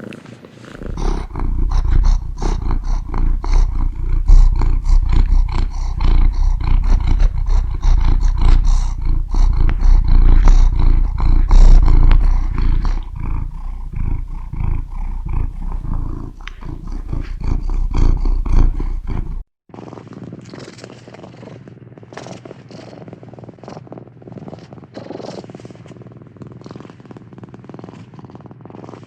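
Domestic cat purring close to the microphone, loud and deep with a fast rhythmic pulse that swells and eases with each breath. About two-thirds of the way in it cuts off abruptly and a quieter, lighter purr continues.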